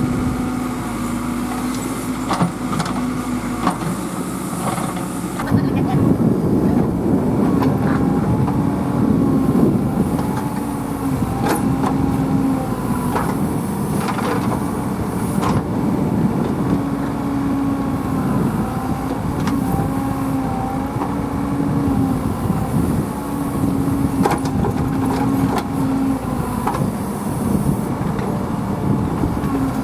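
A heavy diesel engine of farm or earthmoving machinery running under load, with a steady low drone that shifts a little in pitch and occasional knocks and clanks. It gets louder about five seconds in.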